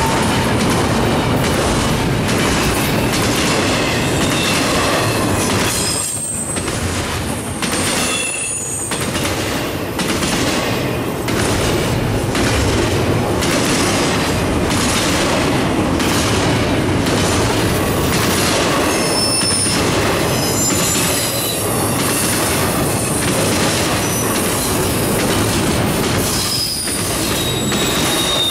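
Double-stack intermodal well cars rolling past at close range: a steady rumble of steel wheels on rail with a rhythmic clatter as the trucks cross. Brief high-pitched wheel squeals come and go.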